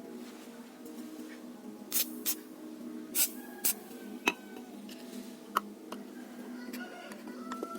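Soft background music with a handful of separate sharp clicks and knocks from metal parts and tools being handled on a workbench, about six in all, mostly in the first half.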